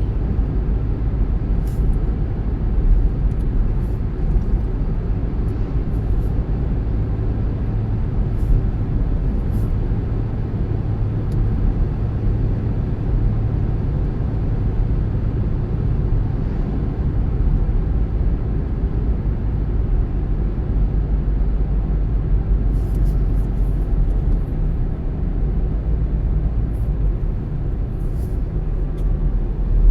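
Car driving at a steady pace: a continuous low rumble of road and engine noise, with a few faint ticks now and then.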